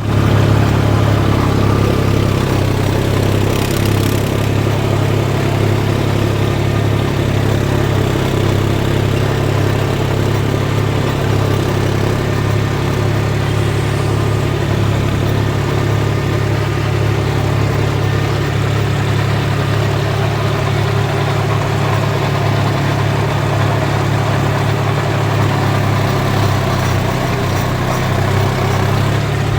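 John Deere 5045D tractor's three-cylinder diesel engine running at a steady speed, with a strong constant low hum.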